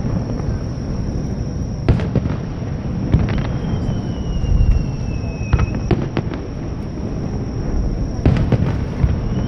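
Fireworks display: aerial shells bursting with sharp bangs every couple of seconds over a continuous low rumble of booms. Midway a whistling shell sounds one long whistle that slowly falls in pitch for about two seconds.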